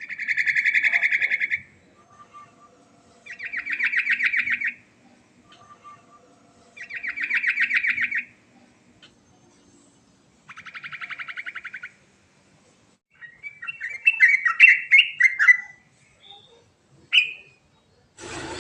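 Yellow-vented bulbul (trucuk) singing its rolling song with mimicked phrases: four rapid rattling trills, each about a second and a half, a few seconds apart, then a quicker jumble of varied notes and a single short note near the end.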